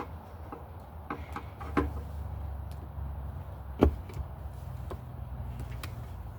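Scattered clicks and knocks of hand work on a metal-and-plastic outdoor light fixture, with one sharp knock about four seconds in, over a low steady rumble.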